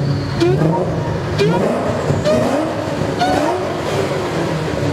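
Car engine accelerating hard through the gears, its note climbing in pitch and dropping at each upshift about once a second.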